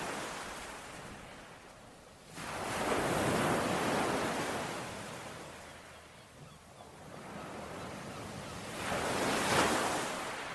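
Ocean waves washing onto a shore: a steady hiss of surf that swells twice, once about two and a half seconds in and again, louder, near the end.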